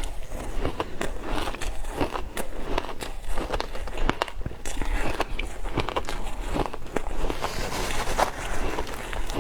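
Frozen matcha ice being bitten and chewed: an irregular run of crunches and cracks.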